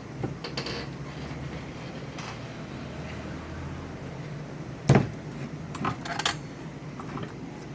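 Small metal tools clinking and tapping on the workbench and amplifier parts, a few scattered clicks with one sharper knock about five seconds in and a short cluster a second later, over a steady low electrical hum.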